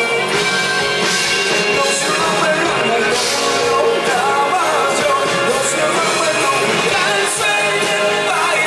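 Live rock band playing a song with a lead singer's vocals over drums, cymbals and guitars, heard loud and steady.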